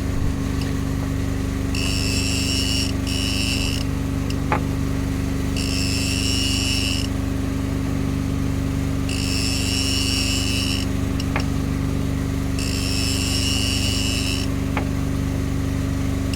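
Boat engine running steadily. Over it, a high buzzing tone sounds for a second or so at a time, five or six times, a few seconds apart.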